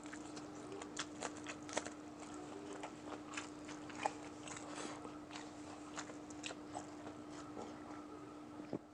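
Close-miked chewing and crunching of crispy fried chicken neck, with irregular sharp crunches.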